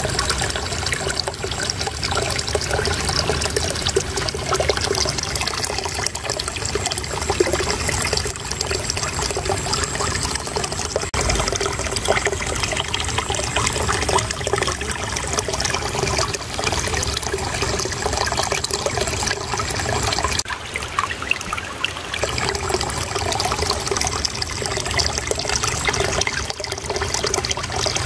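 Shallow flowing water babbling and trickling steadily.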